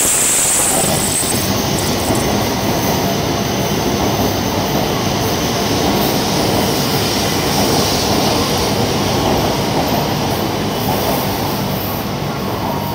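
E7 series Shinkansen train moving past along the platform track: a steady rumble of wheels and running gear on the rails, easing off a little near the end as the end car goes by.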